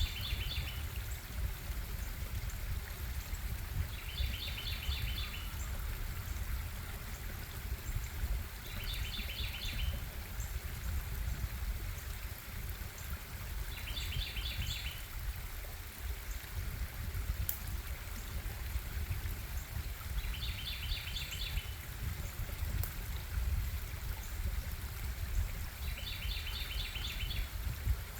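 Stream water running steadily, with a bird repeating a short, rapid phrase of high notes about every five seconds.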